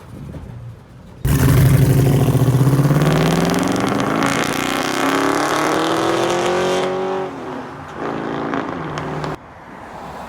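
Swapped 5.3 L LS Vortec V8 in a 1951 Chevrolet pickup under hard throttle: a sudden loud start about a second in, then the engine note rising steadily for about six seconds. The note falls away, comes back briefly at a lower pitch and cuts off abruptly.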